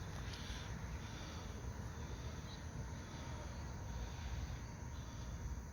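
Faint, steady low rumble of outdoor background noise, with no distinct event standing out.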